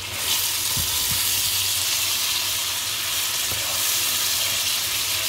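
Sliced carrots, tomatoes, peppers and onion frying in oil in a deep pan: a steady sizzle while a spatula stirs them, with two light knocks about a second in.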